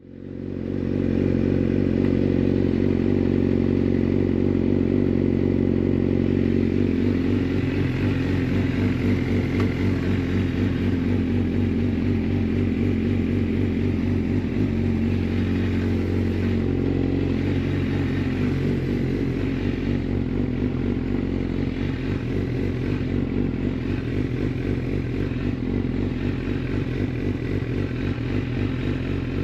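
Suzuki GSX-R 600 inline-four with a full de-catted Yoshimura exhaust, idling steadily at low revs. The sound fades in over the first second.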